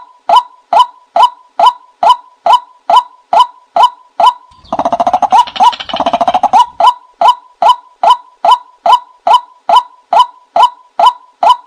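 Recorded call of the bird known in Thai as nok kai na, played as a trapping decoy: short, loud call notes repeated evenly, about two and a half a second. From about a second and a half before the middle, they give way for two seconds to a fast rattling, gurgling phrase, then the steady notes resume.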